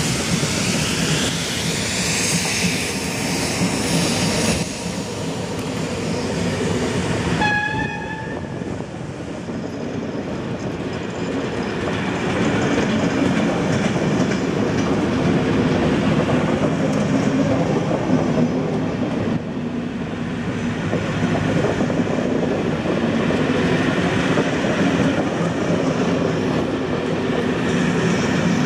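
Passenger coaches of a departing steam-hauled train rolling past, their wheels rumbling and clattering over the rail joints. A high hiss fades out in the first four seconds, and a short whistle sounds once, about seven seconds in.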